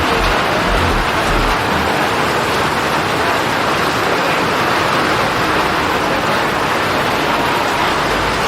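Heavy rain pouring down as a loud, steady hiss, with a low rumble under it for the first second and a half.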